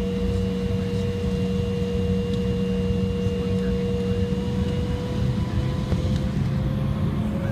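Airliner jet engines heard from inside the passenger cabin: a steady low rumble with a constant whine, its pitch edging slightly higher from about five seconds in.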